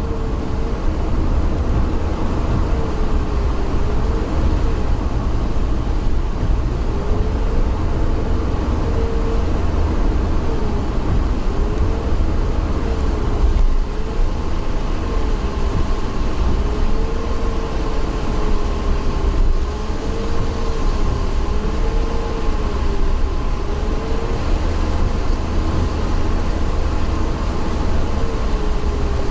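Steady low rumble of a vehicle in motion, with a whine that rises and falls in pitch throughout and a faint steady higher tone joining about halfway through.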